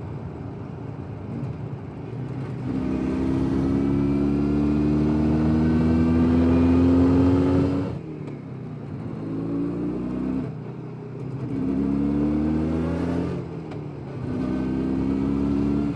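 Jawa 350 638 two-stroke twin motorcycle engine under way and accelerating. Its note rises steadily in pitch for about five seconds, drops off about eight seconds in, then climbs three more times in shorter pulls, as with throttle and gear changes.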